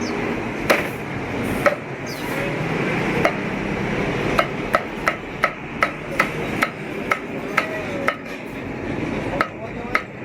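Cleaver chopping roast meat on a wooden block: sharp single knocks, a few spaced strokes and then a quicker run of two to three a second near the middle, over a steady background din.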